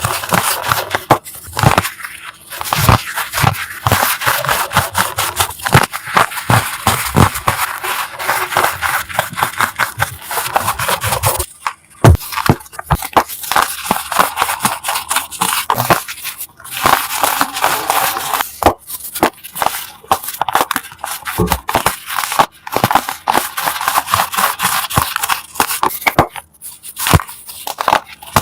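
Crunchy chalk blocks crushed close to the microphone: a dense, continuous crackle of small crunches and crumbles, broken by brief pauses about twelve, sixteen and a half and twenty-six seconds in.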